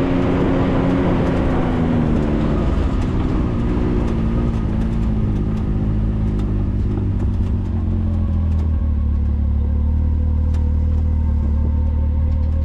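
Can-Am Maverick side-by-side's engine running on the move. Its pitch drops over the first few seconds as it slows, then settles to a steady low drone, with scattered light ticks over it.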